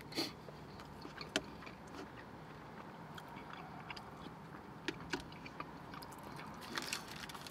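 Faint chewing and mouth sounds from eating a sub sandwich, with a few scattered soft clicks, over a low steady hum.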